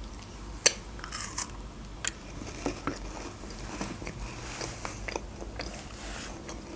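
A person chewing a small wrapped candy close to the microphone: crisp crunches, most of them in the first three seconds, then quieter chewing.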